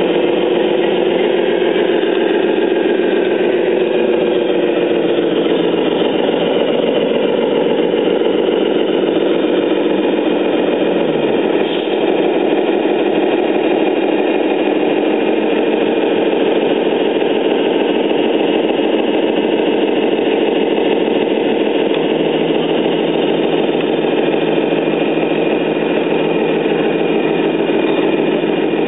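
Radio-controlled Scania 10x6 truck model running with a steady engine-like drone. There is a brief dip and shift in pitch about twelve seconds in.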